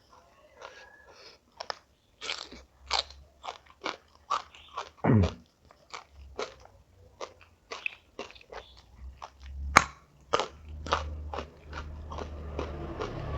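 Close-up crunching and chewing as crisp food is bitten and eaten, with sharp irregular crunches and a louder crack about ten seconds in.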